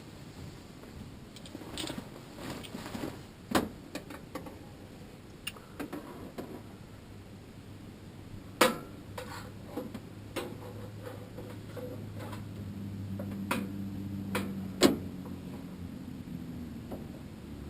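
Metal parts and tools of a furnace blower assembly being handled: scattered sharp clicks and knocks, with a low steady hum starting about halfway through.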